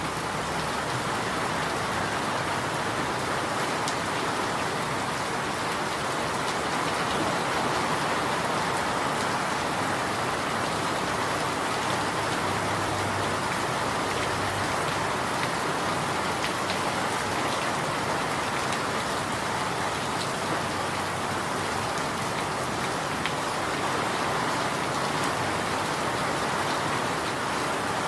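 Steady, heavy rain falling: an even, unbroken hiss with faint scattered drop ticks.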